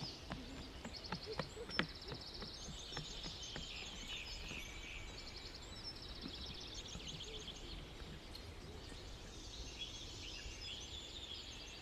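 Songbirds singing, several birds overlapping in fast, high, repeated trills, over a faint low rumble. A few short clicks in the first two seconds.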